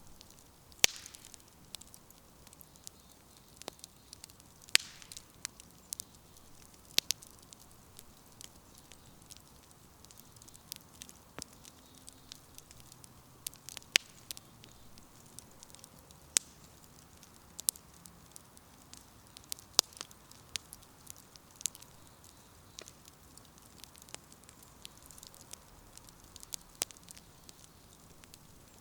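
Campfire burning, firewood crackling with irregular sharp pops and snaps, a few louder ones standing out, over a faint low hiss of flame.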